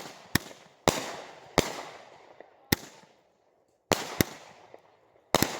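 Aerial fireworks bursting: about seven sharp bangs at irregular intervals, each trailing off in an echoing tail, with a short lull a little after the middle.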